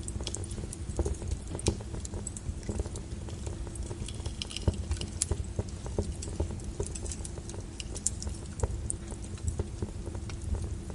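Logs burning in a fireplace, crackling with frequent irregular sharp pops and snaps over a low steady rumble.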